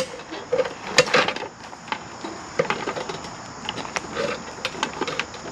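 Irregular knocks, clunks and rattles of metal and wood as old mini bikes and clutter are shifted and dragged out of a shed, with crickets chirping steadily behind.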